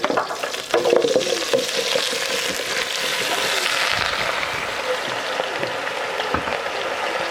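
Food frying in hot oil with a steady sizzle. There are a few clatters in the first second or so as cooking starts.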